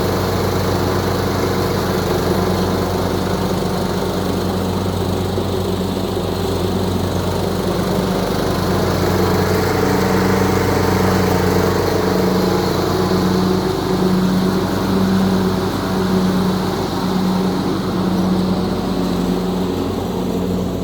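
Craftsman YTS3000 riding lawn mower engine running steadily, its note shifting a little about halfway through. It is running after a valve adjustment, and the owner reckons this has cured what was sold as a rod knock.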